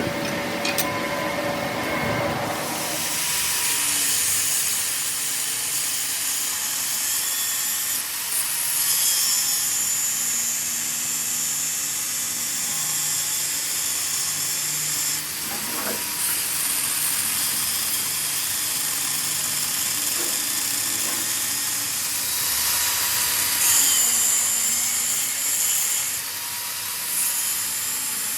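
Power tool working on metal, with a steady high-pitched hiss that starts a couple of seconds in and holds with small changes in strength.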